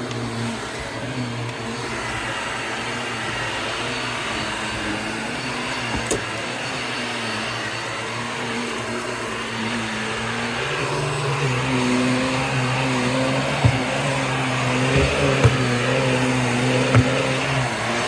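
Vacuum cleaner running steadily, its motor hum wavering. About two-thirds through the note shifts and gets a little louder, and sharp crunches and clicks follow as debris is sucked up.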